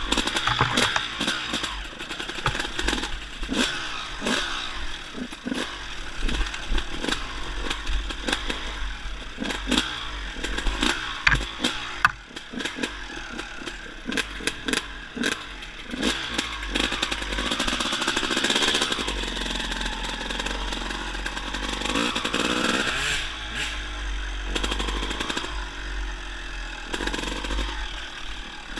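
Dirt bike engine running and revving, its pitch rising and falling, with frequent knocks and rattles through the first half.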